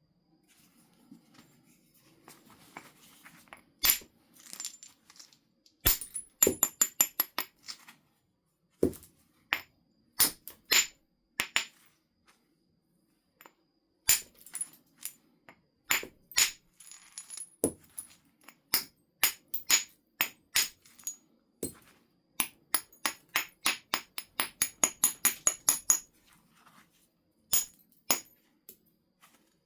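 Flint being knapped: a large nodule being reduced to a biface. Sharp, ringing clicks of tools striking the stone, with single heavier blows a few seconds apart and quick runs of light taps at about three or four a second.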